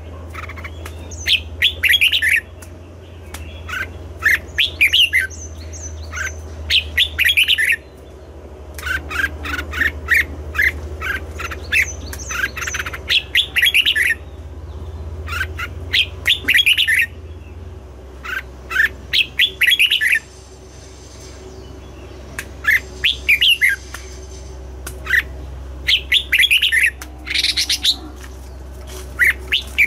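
Red-whiskered bulbuls singing: short, bright phrases of quick notes, repeated every second or two with brief pauses, over a steady low hum.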